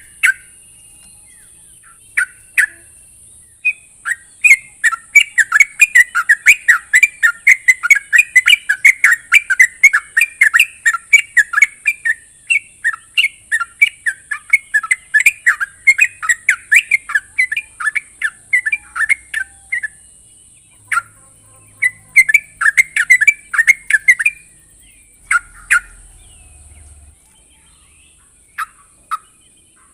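Yellow-vented bulbul (trucuk) calling: a long run of quick, bubbly chattering notes, about three to four a second, from about four seconds in to about twenty, then a shorter run, with a few scattered notes near the start and end.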